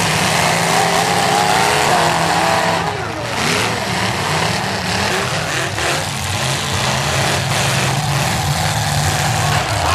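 Demolition derby cars' engines running and revving, a steady rumble with the revs rising and falling.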